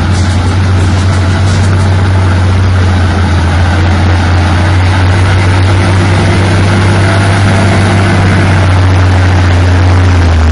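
A heavy vehicle engine running steadily, with a constant low drone.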